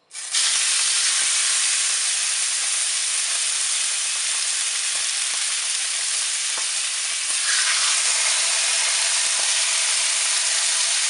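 Marinated chicken breast fillets going into a hot, oiled frying pan: a loud sizzle starts suddenly, then the frying hisses steadily and gets a little louder about seven seconds in.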